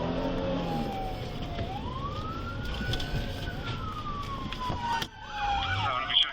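Police car sirens: a slow rising and falling wail, joined about five seconds in by a second siren sweeping quickly up and down, over the rumble of a moving car.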